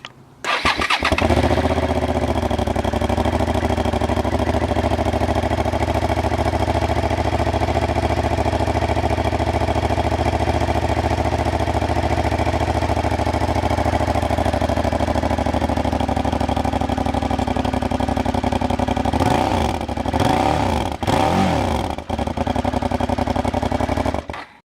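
Suzuki SV650's V-twin engine idling steadily through its exhaust, then revved in three quick blips about twenty seconds in; the sound cuts off just before the end.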